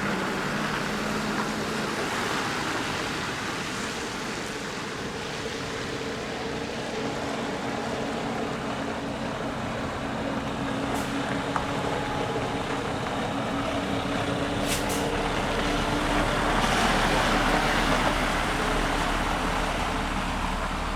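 Heavy truck engines running as decorated art trucks pull out, a steady drone that grows a little louder near the end.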